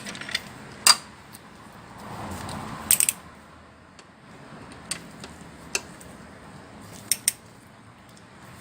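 Scattered metallic clinks and taps from hand tools being handled and set down, about seven separate knocks with pauses between them.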